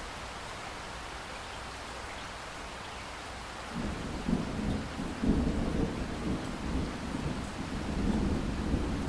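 Steady rain hiss, then about four seconds in a low rolling rumble of thunder begins and keeps rumbling, swelling loudest about a second later.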